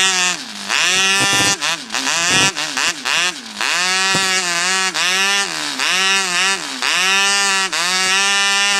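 Cox .049 two-stroke glow model engine with an exhaust throttle sleeve, blipped repeatedly from idle to full throttle and back, about once a second; the revs pick up instantly with no hesitation.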